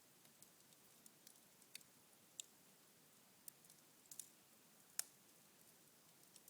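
Cherry-wood embers smouldering in a fireplace: faint, with scattered sharp crackles and ticks at irregular intervals, the loudest pop about five seconds in.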